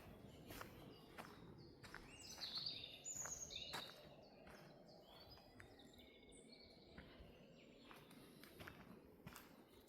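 Quiet footsteps crunching on the forest floor, with a songbird singing a short run of quick, falling notes about two seconds in.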